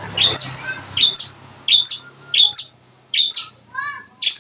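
Long-tailed shrike (cendet) calling: a run of short, sharp, high chirps repeated every half second or so, with a brief warbled phrase about four seconds in.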